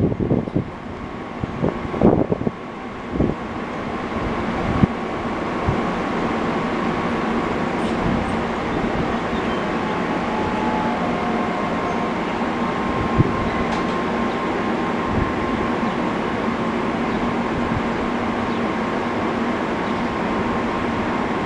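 NJ Transit commuter train of Comet V coaches with an ALP-45DP locomotive, standing at a station platform. Its equipment gives a steady mechanical hum with a few held tones. The sound swells over the first few seconds and then holds level, with a few low thumps at the start.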